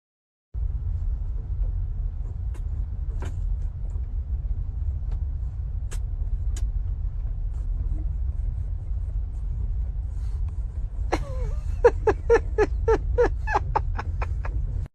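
Steady low rumble of a running vehicle, with a few scattered clicks. About 11 s in, a quick even series of about ten short pitched calls, roughly three a second, comes over it.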